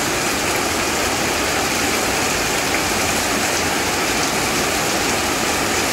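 Heavy rain pouring down, a steady, even hiss of a downpour falling on the yard.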